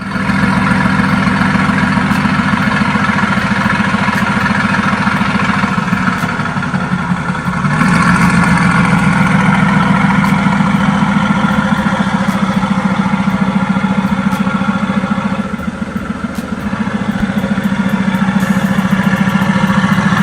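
Mercedes-AMG GT S twin-turbo V8 idling with a steady, fast-pulsing burble, getting louder about eight seconds in as the drive mode is switched up toward sport plus.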